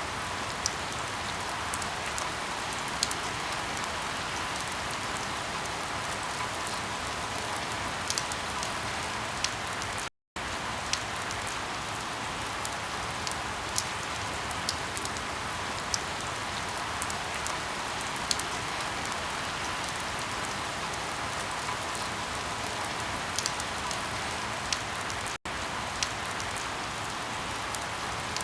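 Steady rain hiss with scattered sharp pops and crackles of burning firewood. The sound cuts out completely for a moment about ten seconds in.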